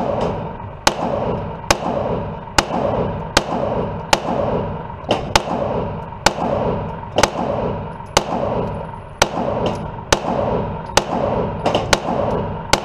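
Gunshots at a shooting range, one after another at a quick, uneven pace of roughly one to two a second, as though more than one shooter is firing. Each shot is sharp and rings out briefly after it.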